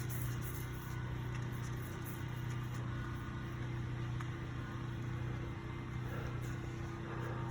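Carpet-cleaning machine running with a steady, even hum.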